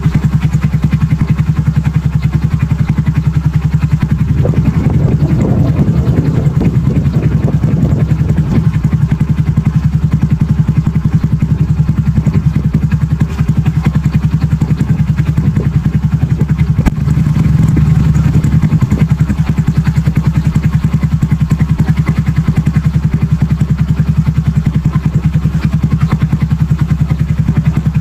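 Super Cub's single-cylinder four-stroke engine idling through an aftermarket BEAMS muffler, a steady, fast, even low exhaust pulse. It swells briefly about two-thirds of the way in.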